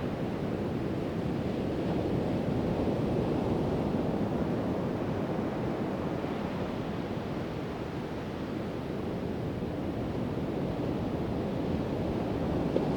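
Pacific Ocean surf breaking and washing ashore in a continuous deep rush, swelling a little about three seconds in, easing around eight seconds and building again toward the end.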